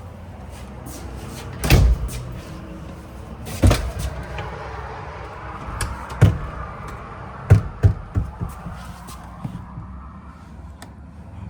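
Several knocks and thumps from doors in the trailer's interior being opened and shut, a few seconds apart, with a quick double knock near the middle, over a steady low hum.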